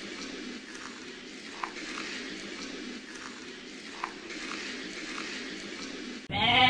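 A steady low hum and hiss with a few faint clicks, then near the end a loud bleat from a goat or sheep cuts in suddenly.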